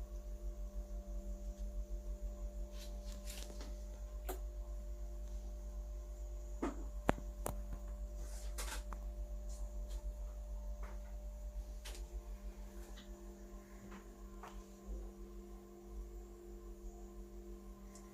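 Small fan motor of a homemade egg incubator running with a steady hum and a low fluttering rumble, with scattered light clicks and knocks.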